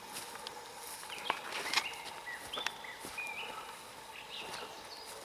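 A small forest bird calling: a string of short, high chirps, each on a steady pitch, through the middle of the stretch. A few scattered sharp clicks and a faint background hiss accompany them.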